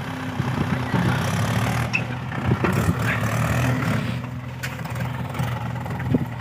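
Mahindra 575 tractor's four-cylinder diesel engine running steadily, with a few light knocks and rattles about two to three seconds in.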